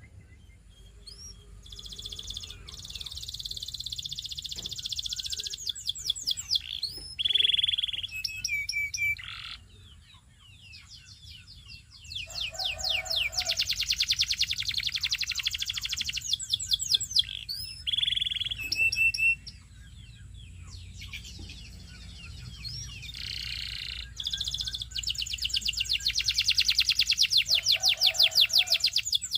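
Canary singing: long phrases of rapid repeated trilled notes and rolling tours, broken by short pauses and a few clear whistled notes.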